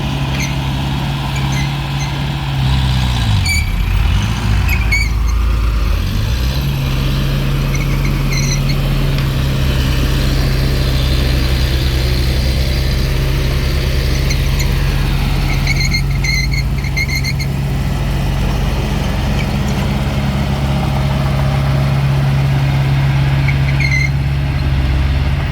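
Diesel engine of heavy earthmoving machinery running steadily. Its pitch sags and recovers a few seconds in. Short high squeaks come at intervals.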